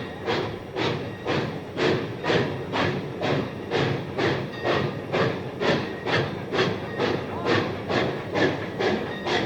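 Santa Fe 4-8-4 Northern steam locomotive No. 3759 working a train, its exhaust chuffing in a steady beat of about two chuffs a second.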